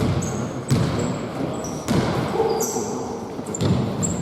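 Basketball bouncing on a hard court floor, a few irregularly spaced bounces, with short high squeaks in between.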